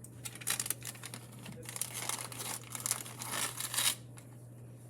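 Packaging crinkling and rustling in irregular strokes as it is handled, for about four seconds.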